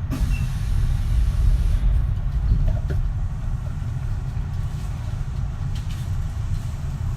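Kintetsu 3220 series electric train running at speed, heard from inside the car: a steady low rumble of wheels and running gear, with a few faint clicks.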